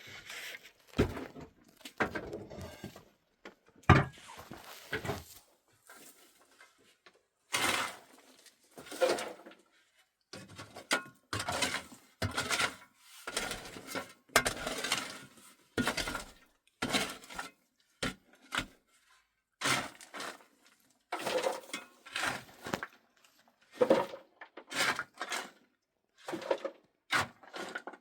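A long run of irregular knocks, snaps and clatters: hard objects being handled and set down, some of them sounding like breaking.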